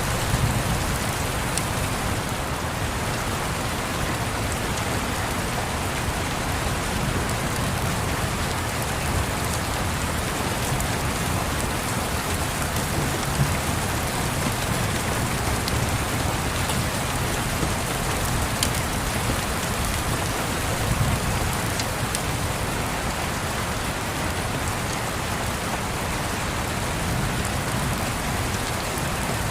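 Steady rain falling on a surface, with a low rumble underneath and a few faint crackles from a wood fire.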